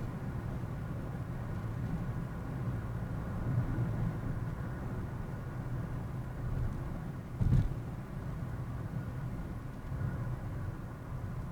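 Car driving noise picked up by a dashcam: a steady low road and engine rumble, with one short thump about two-thirds of the way through.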